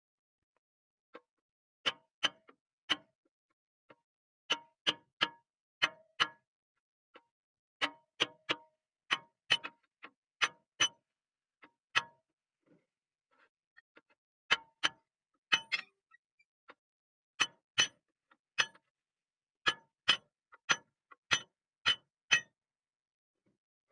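Metal striking metal: sharp clanks, each with a short ring, coming in irregular clusters of two to four blows, about thirty strikes in all with brief pauses between groups.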